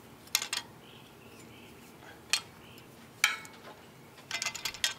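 Sharp metal-on-metal clinks and knocks of hand tools and engine parts as a cylinder head is worked off an engine. A few separate strikes, some with a short ring, then a quick rattle of clinks near the end.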